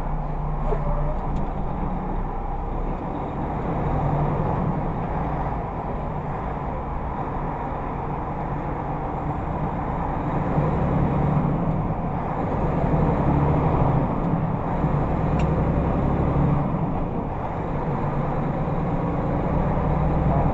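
Steady engine and road noise of a car driving, as picked up by its dashcam, swelling and easing slightly with no crash or impact.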